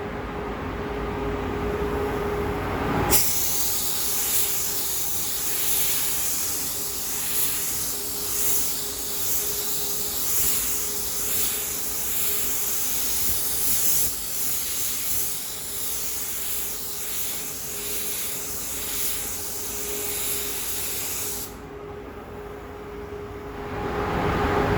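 Spray gun spraying blue paint onto a masked motorcycle gas tank. A loud air hiss starts about three seconds in, swells and eases with each pass, and stops about three seconds before the end, over a steady background hum.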